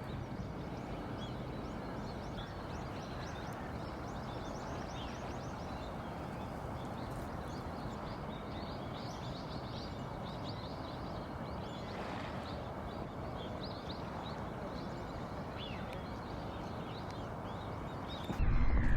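Many small wild birds calling in short, high chirps, scattered and overlapping, over a steady low background rumble. Just before the end a much louder low rumble cuts in.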